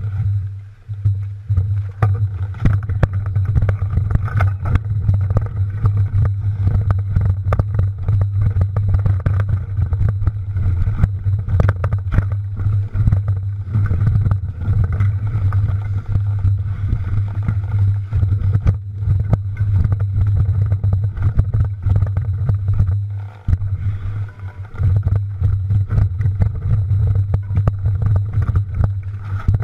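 Mountain bike ridden over rough ground: a steady low rumble of wind on the microphone, with frequent rattling knocks and clicks from the bike and the jolting terrain.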